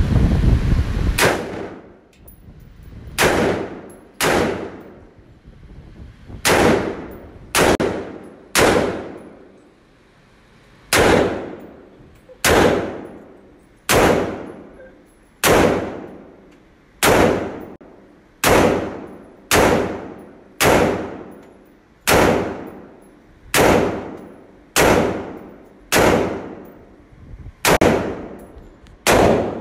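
AR-15 rifle fired in single shots at a slow, uneven pace, about twenty shots one to two seconds apart, each trailing off in an echo about a second long.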